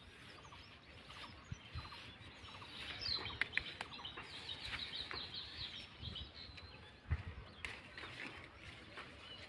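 Small birds chirping faintly, with a run of quick chirps a few seconds in, over a few soft clicks and rustles as the bean vines are handled.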